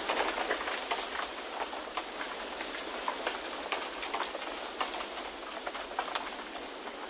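Steady wind ambience: an even rushing hiss dotted throughout with many small ticks and patters.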